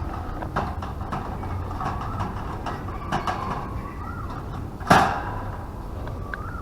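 A single sharp knock about five seconds in, over a low steady hum and scattered faint clicks.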